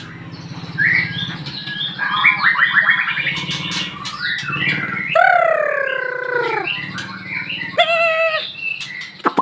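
A murai (white-rumped shama) singing a varied song of short chirps and rapid trilled phrases, with a long falling squawk-like call about five seconds in and a wavering trilled note near the end.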